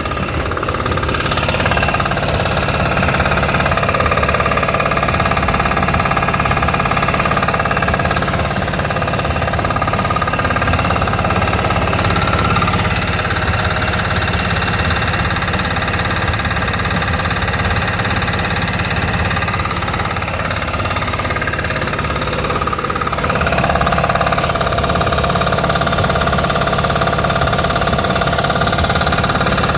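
The engine of a farm machine running steadily with a knocking clatter. Higher mechanical whining tones over it change pitch twice, as the machine is put through its operation check.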